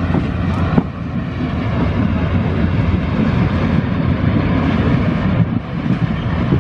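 Passenger train running, heard from inside the coach: a steady low rumble of wheels and carriage with one short knock about a second in.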